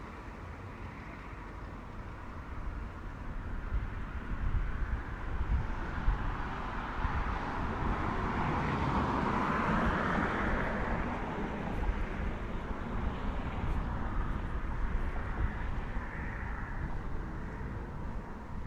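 A car passing on a city street: its tyre and engine noise swells, is loudest about halfway through, then fades away, over a steady low traffic rumble.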